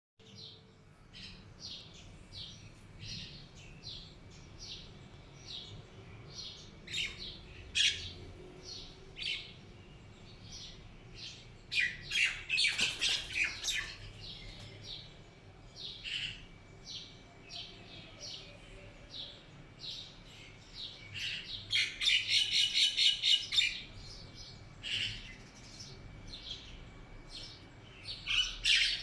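A small bird chirping repeatedly in short high calls. Twice, about twelve seconds in and again about twenty-two seconds in, it breaks into a louder run of rapid chirps.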